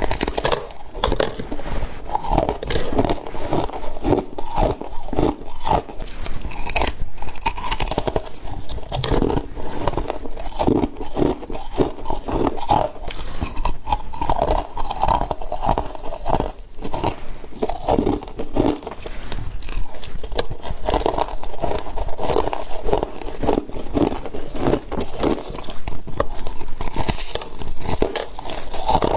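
Close-up crunching and chewing of frost being bitten and eaten, a steady run of crackly crunches without pause.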